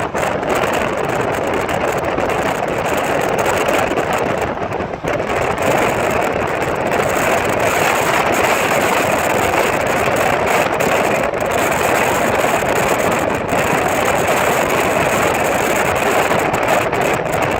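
Loud, steady wind rushing over the microphone of a fast-moving vehicle, with the vehicle's running noise under it.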